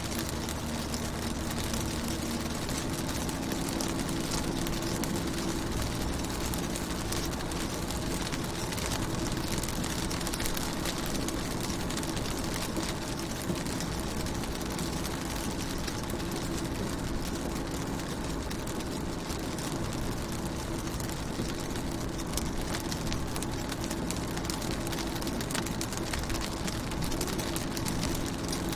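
Rain falling on a car's windows and body, a dense steady patter of drops, with a steady low hum underneath.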